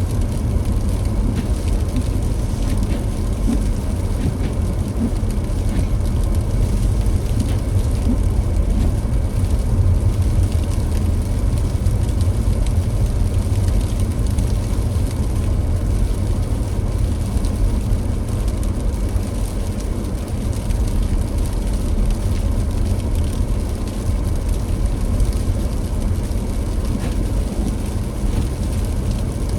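Car driving on a snowy road: a steady low rumble of tyres and engine.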